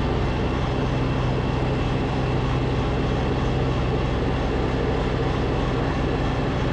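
Snowblower engine running steadily under load.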